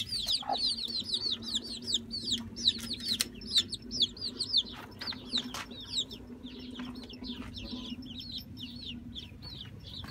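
A flock of small birds cheeping, many short high chirps a second, each falling in pitch, thinning out in the last few seconds. A few sharp clicks sound over them.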